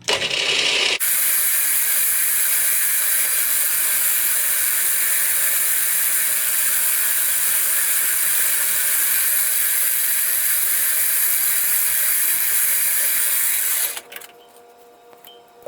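Holes being drilled in a small metal block on a milling machine: a short burst of noise, then a loud, steady hiss from about a second in that cuts off suddenly near the end.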